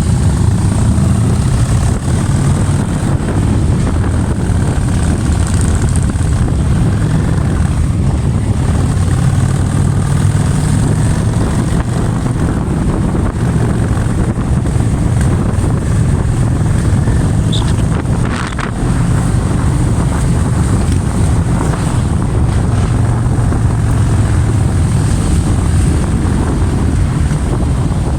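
Motorcycle engine running steadily with a low rumble, heavy wind buffeting the microphone over it.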